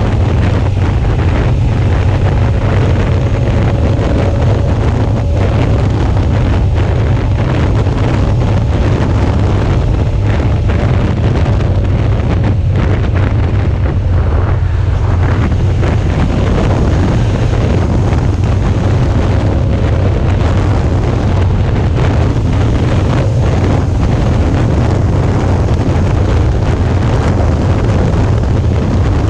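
Steady, loud wind rush buffeting the microphone of an action camera on a Suzuki V-Strom 650 motorcycle at road speed. The bike's V-twin engine runs faintly underneath as a thin, wavering hum.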